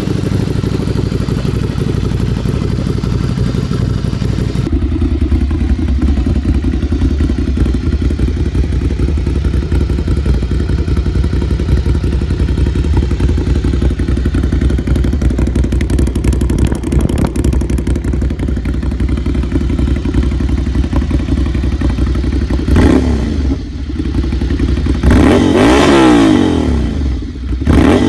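Ducati Scrambler 800's air-cooled L-twin engine and exhaust, running steadily at first, then blipped up and down several times in quick revs near the end.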